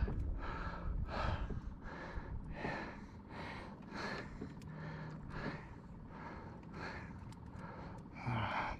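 A man breathing hard and heavily, a breath about every second or less in a steady rhythm, with a louder breath near the end: winded after exertion.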